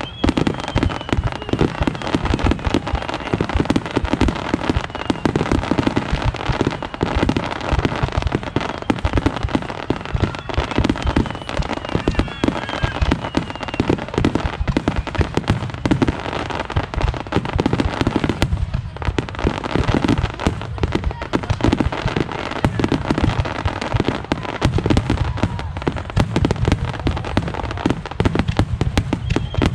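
Large aerial fireworks display: a dense, continuous barrage of shell bursts and crackling, with a few short whistling tones and one brief lull in the middle.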